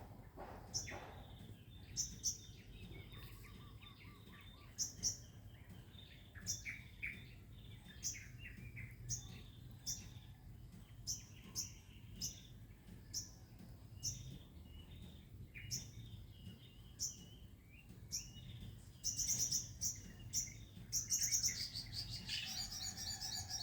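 Wild birds calling in forest: one bird repeats a short, high call about once every second, with other birds chirping lower in between. In the last few seconds a rapid, high pulsing trill sets in and grows denser.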